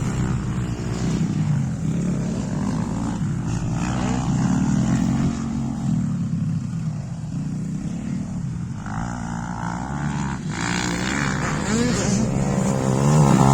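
YCF 125 pit bike's four-stroke single-cylinder engine running and revving up and down as the throttle is worked, with pitch rising and getting louder near the end.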